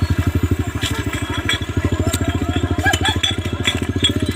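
A vehicle engine idling close by, a rapid, even pulsing throat, with faint scattered clicks above it.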